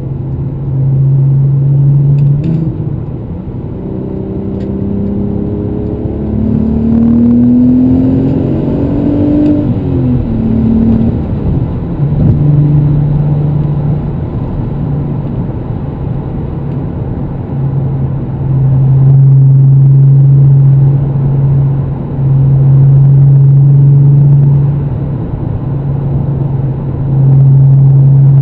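Cabin noise of a VW Golf R32 Mk5's 3.2-litre V6 breathing through a non-resonated Milltek cat-back exhaust. The engine note rises as the car accelerates, then settles into a deep, steady exhaust drone at cruising speed that swells louder several times. The drone comes from the missing resonator and grows with throttle load.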